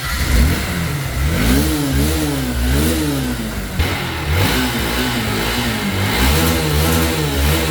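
Motorcycle engine revved in a string of throttle blips, its pitch rising and falling over and over.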